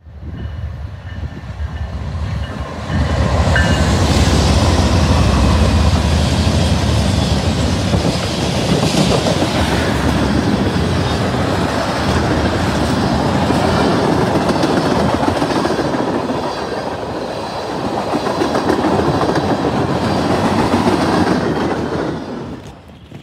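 Freight train of tank cars and boxcars rolling past close by at speed: a steady, loud rumble of steel wheels on the rails. It swells sharply about three seconds in and drops away near the end.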